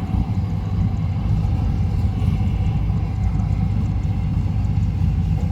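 Diesel engine of a SANY SY200C excavator, a Mitsubishi 4M50 four-cylinder, running steadily with a dense low rumble.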